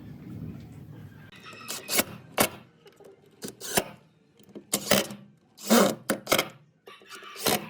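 A series of irregular sharp knocks and clicks, about a dozen in loose clusters, like hard objects being set down or struck during workshop handwork.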